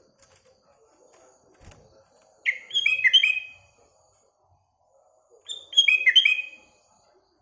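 Sooty-headed bulbul singing: two short song phrases of quick falling notes, about three seconds apart.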